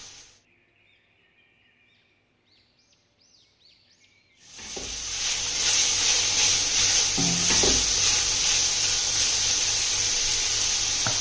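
Chicken strips and julienned carrots sizzling in a stainless steel pan as they are stirred with a silicone spatula. The sizzle drops away about half a second in, leaving near silence with a few faint high chirps, then comes back steady about halfway through, with a few scrapes of the spatula against the pan.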